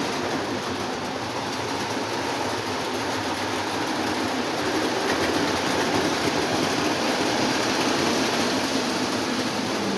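Lionel O27 model trains running steadily around the track: electric motor hum with the rumble of wheels on the rails.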